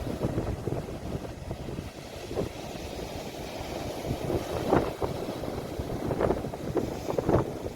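Sea waves washing at the shore, heard as a steady low rumble with wind buffeting the phone's microphone, and a few short louder moments about two seconds in and several times near the end.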